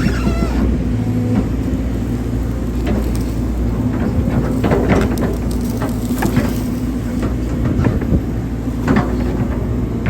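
Hydraulic excavator's diesel engine running steadily, with several short knocks from the machine at work, the loudest about five and nine seconds in.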